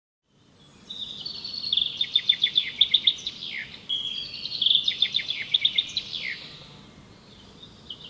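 A songbird singing two phrases, each a quick run of high chirps ending in a falling whistle, over faint background noise.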